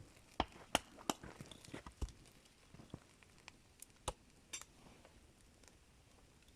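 A series of sharp, irregular clicks and knocks, about a dozen, mostly in the first five seconds.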